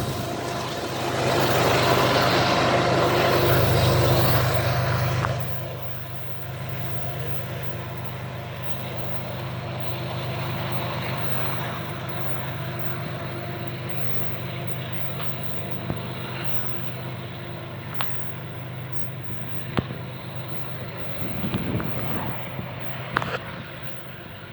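Train rolling past, loud for about five seconds and then dropping to a quieter steady rumble with a low hum, with a few sharp clicks near the end.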